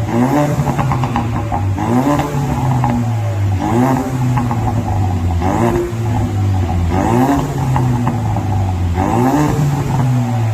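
Ford Mustang 2.3 EcoBoost turbocharged four-cylinder blipped repeatedly through a custom end-muffler exhaust, a quick rev about every two seconds that rises and falls back to idle.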